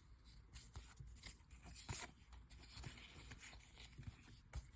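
Faint rustling and scattered small clicks of trading cards being handled and flipped through.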